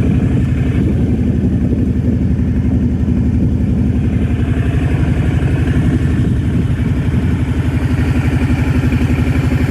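A vehicle engine running steadily, with a rapid, even pulsing.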